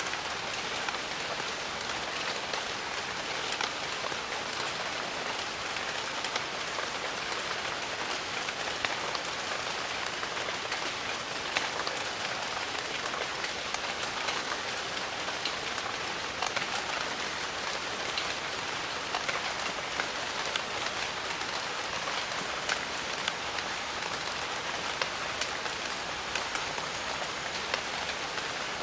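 Steady jungle rain: an even hiss of falling rain with many individual drops heard as small ticks.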